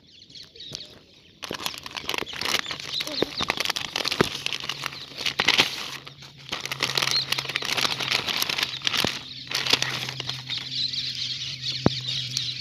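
Rubber balloon fluttering and flapping rapidly as motorcycle exhaust blows into it over the silencer, with the engine's steady low hum underneath from about four seconds in.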